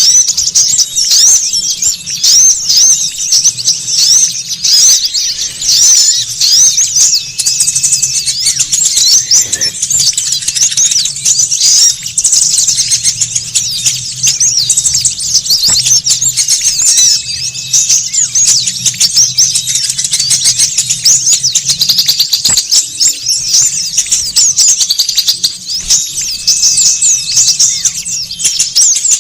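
Many small songbirds twittering and chirping busily in a dense, nonstop chorus of rapid high-pitched notes, played as a bird-lure call to draw in small wild birds. A few short, level whistled notes stand out now and then.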